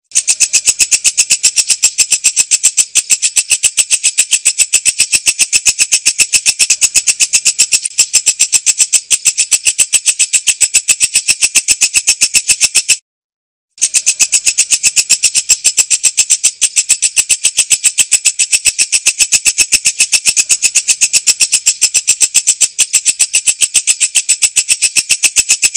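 Walang kecek insect calling: a loud, high-pitched, rough-sounding trill of fast, evenly spaced pulses that breaks off for under a second about halfway through and then resumes unchanged.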